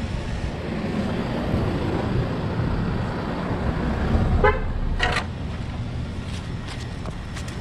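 Steady low rumble of a vehicle or road traffic, with two short honk-like toots about four and a half and five seconds in.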